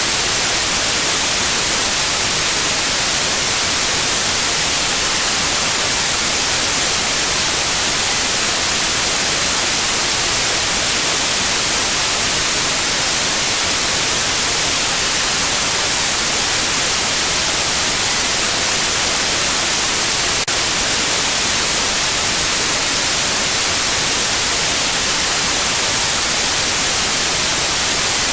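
White noise hiss with a steady, very high-pitched 9645 Hz tone laid over it, a tinnitus sound-therapy signal. The tone cuts off about two-thirds of the way through, leaving the white noise alone.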